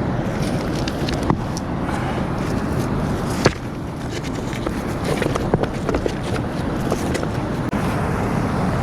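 Steady rush of a fast-flowing mountain river, with a few sharp clicks and knocks from parts of a fire pit being handled and fitted together; the loudest knock comes about three and a half seconds in.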